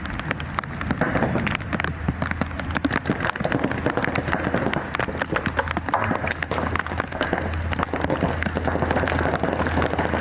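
Paintball markers firing in rapid, irregular pops, with rain noise and a steady low rumble underneath.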